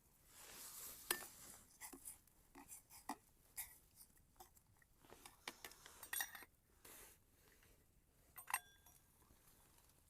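Faint, scattered clinks and ticks of metal camp cookware: a cooking pot and utensils being handled.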